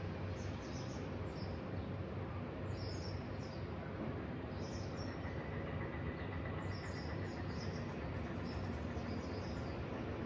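Small birds chirping in short, high, repeated bursts over a steady low background rumble.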